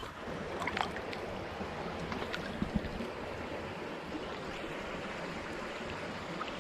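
Steady rush of a rain-swollen creek's flowing water, with a few light clicks in the first few seconds.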